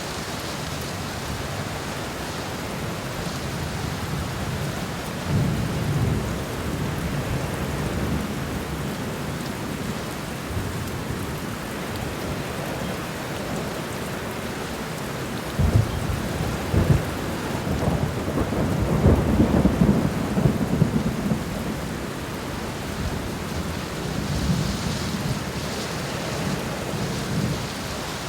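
Steady rain falling on a garden, with deep rumbles that swell in and out; the longest and loudest comes a little past the middle.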